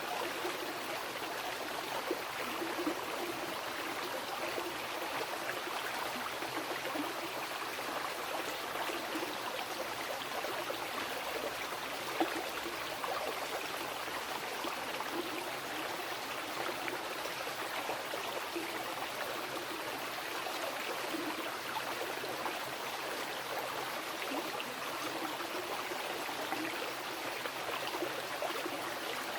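Mountain river flowing over rocks: a steady rush of water with small gurgles and splashes.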